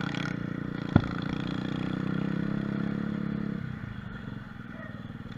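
Mini moto (pit bike) engine running at steady revs, with one sharp knock about a second in; after about three and a half seconds the engine eases off to a quieter, lower note.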